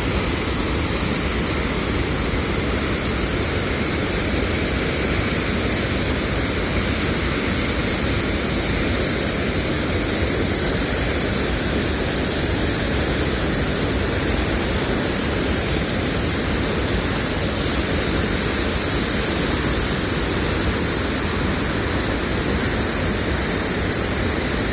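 Steady, even rush of floodwater pouring through a dam's open spillway gates.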